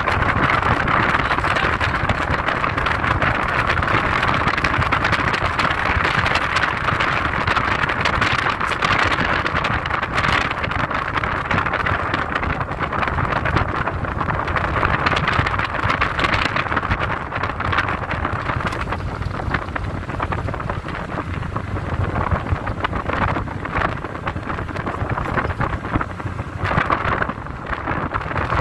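Car driving steadily along a road: continuous tyre and road noise over a low engine rumble.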